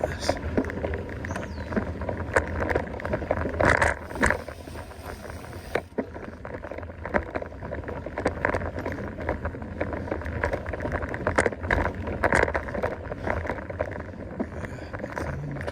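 Mountain bike riding over a dirt trail: steady tyre rumble with frequent clicks and knocks as the bike rattles over bumps.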